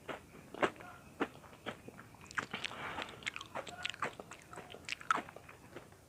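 Close-miked crunchy chewing of butter bread popcorn, crisp toasted buttered bread cubes. It comes as a run of sharp crackles, several a second, thickest from about two seconds in to near the end.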